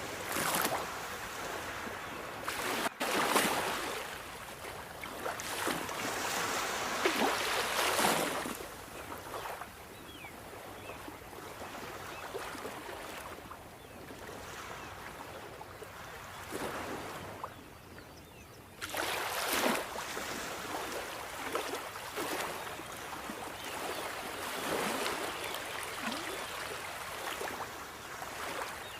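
Sea waves breaking and washing in on the shore, in irregular hissing surges that swell and fade, with a quieter lull in the middle.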